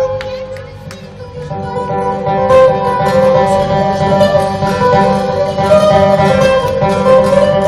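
Live rock band playing an instrumental passage led by guitar. It drops back briefly about a second in, then builds up again.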